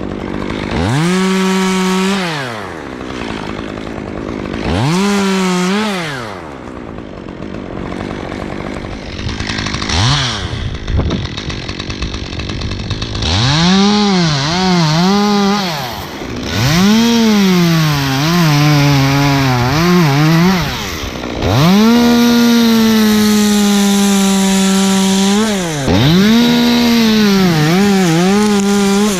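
Gas chainsaw revving up to full throttle in repeated bursts and dropping back toward idle between them, its pitch dipping under load as it cuts into pine wood. The longest cut is held steady for about four seconds near the last third.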